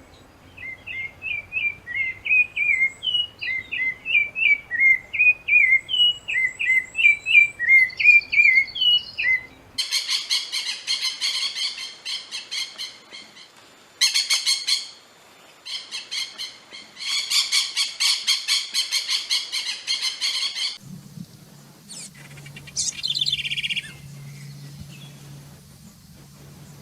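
Birdsong in separate recordings joined by abrupt cuts. First a bird repeats short two-note whistled phrases, about one a second. About ten seconds in, a harsh, rapid buzzing trill takes over in several bouts. About twenty seconds in, a single falling call sounds over a low steady hum.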